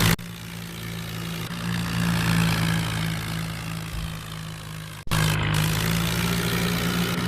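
Tractor engine running steadily. The sound cuts out abruptly about five seconds in and resumes slightly louder.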